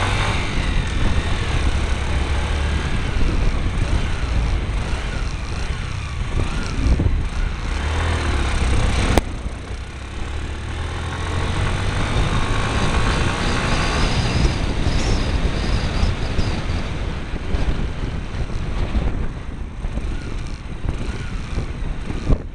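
Motorbike engine running under way, its revs rising and falling, over a steady rushing noise from the bike-mounted camera. A sharp click comes about nine seconds in, with the sound briefly quieter after it.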